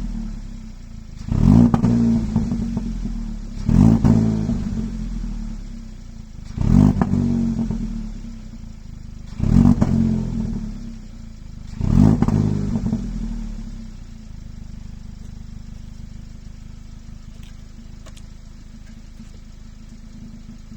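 2020 Kia ProCeed GT's 1.6-litre turbocharged four-cylinder engine, heard through its factory flap exhaust, blipped five times in a row, each rev rising sharply and falling back. It then settles to a steady idle.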